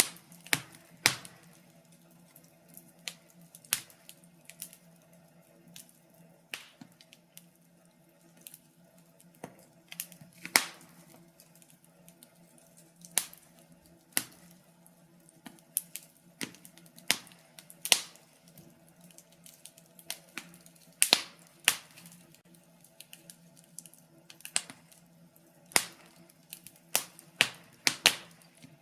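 Wood fire crackling: irregular sharp pops and snaps, scattered about a second apart, some much louder than others, over a faint steady low hum.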